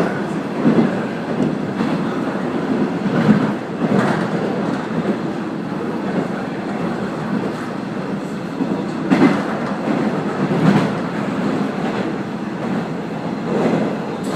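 Train running along the track, heard from aboard: a steady rumble of wheels on rail with a clickety-clack and occasional heavier knocks as the wheels pass over rail joints.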